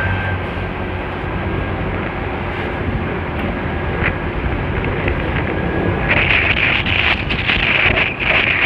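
Wind rushing over the microphone of a rider on a Honda Spacy scooter on the move, with engine and road noise underneath. The wind gets louder and gustier from about six seconds in.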